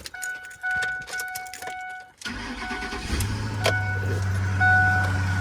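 Pickup truck's warning chime beeping about twice a second, then the engine cranks and starts about two seconds in on a cold morning and settles into a steady idle while the chime keeps sounding.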